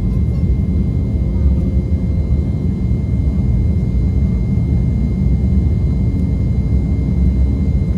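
Cabin noise of an Embraer E195 jet at high engine power, heard from inside near the front of the cabin: a steady deep roar of its GE CF34-10E turbofans and rushing air, with a thin steady whine over it.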